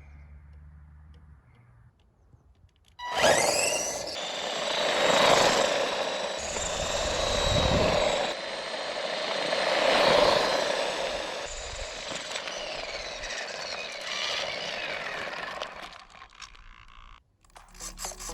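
Brushed electric motor and drivetrain of an RC monster truck whining as it speeds up and runs over rough ground. It starts suddenly about three seconds in, swells twice as the truck passes close, and fades away near the end.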